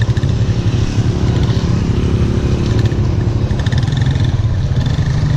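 Motorcycle engine running steadily under way, heard from on the moving bike.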